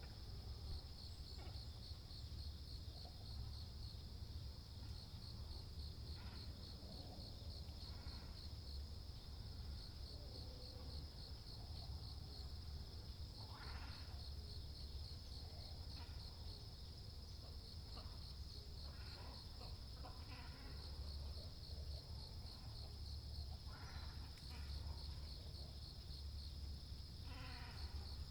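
Waterbirds, great cormorants and herons, giving short harsh croaking calls every few seconds over a steady, fast-pulsing high trill of insects.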